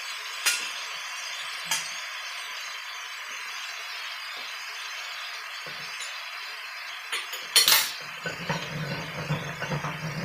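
Spaghetti, sausage and vegetables sizzling steadily in a hot wok, with a few sharp metal clinks, the loudest near the end, followed by a short run of clattering.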